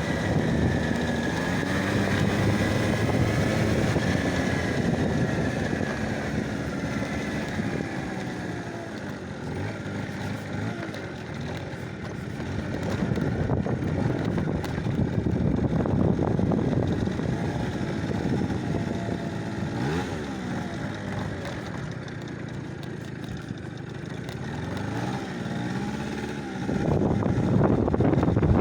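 A motor vehicle's engine running, its pitch slowly rising and falling as it changes speed, over a steady rush of noise that grows louder near the end like wind on the microphone.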